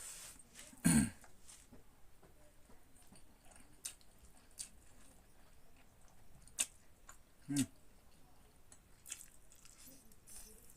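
Close-miked chewing of pork, with scattered wet mouth clicks and smacks. Two short, low vocal sounds that fall in pitch come about a second in and again around seven and a half seconds.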